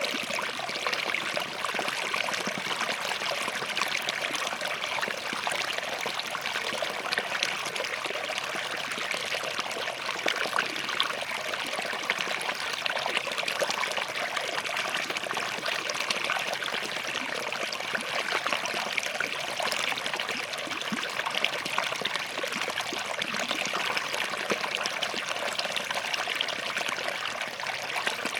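Small forest stream running over and between rocks: a steady babble of water with fine trickling and splashing.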